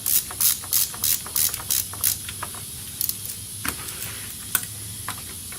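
Hand ratchet wrench clicking in an even run, about three clicks a second, stopping about two seconds in. A few scattered metallic clicks and taps follow.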